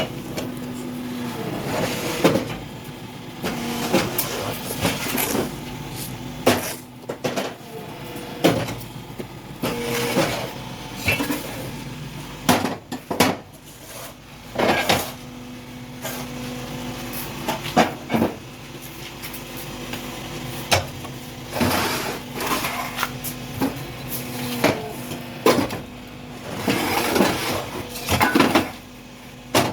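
Block-making machine in a concrete block factory: a steady machine hum, broken now and then, with many irregular loud clanks and knocks.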